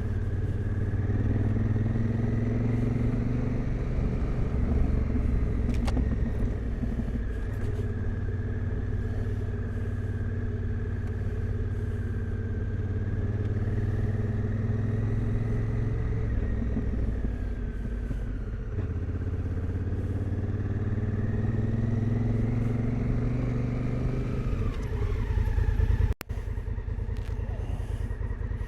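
Adventure motorcycle engine running steadily while riding, its pitch slowly rising and falling with the throttle. Near the end the sound breaks off for an instant.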